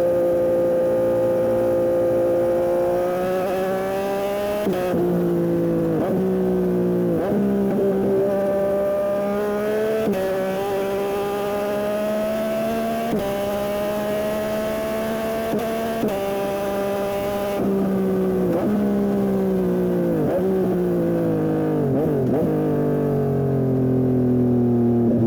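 Yamaha MT-09 SP's three-cylinder engine through a Dominator aftermarket exhaust, riding hard: it climbs in pitch through several quick upshifts, pulls steadily, then drops through a series of downshifts with brief rises in pitch before settling lower near the end.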